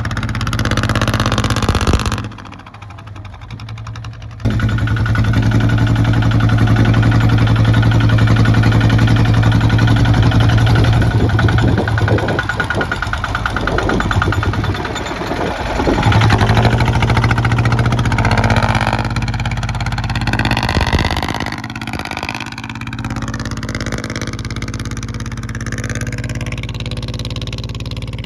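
Kubota ZT155 single-cylinder diesel engine running steadily. It drops in level about two seconds in and comes back up about four and a half seconds in.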